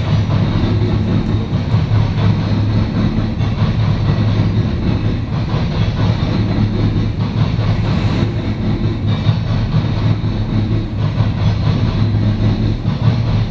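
Norfolk Southern coal train's loaded coal cars rolling past, a steady low rumble of wheels on rail with no let-up.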